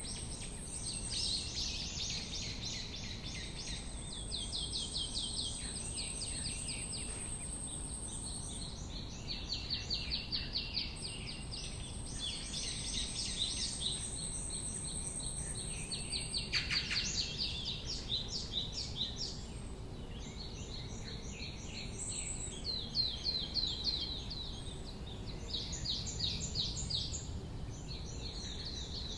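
Several songbirds singing, with fast runs of repeated high chirps and trills throughout, over a steady low outdoor background hum. A thin, very high steady tone sounds several times, each lasting a few seconds.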